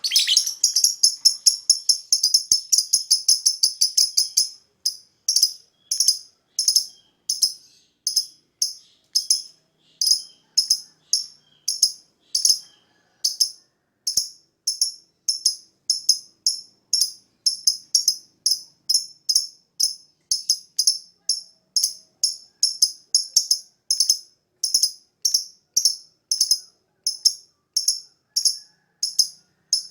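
Lovebird calling in high-pitched, evenly spaced chirps, about two or three a second, after a fast rattling run of chirps in the first four seconds or so.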